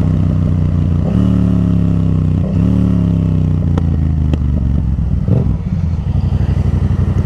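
Yamaha FZ-07's parallel-twin engine running, its pitch falling from about a second in, breaking briefly, falling again, then running steady and low.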